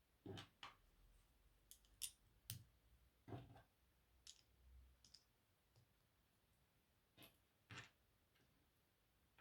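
Faint, irregular clicks of LEGO plastic pieces being handled and pressed together, about a dozen over the stretch.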